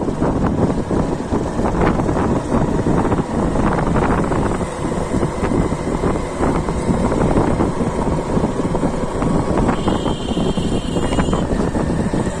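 Kubota combine harvester running at work, a loud, steady mechanical noise, with wind buffeting the microphone.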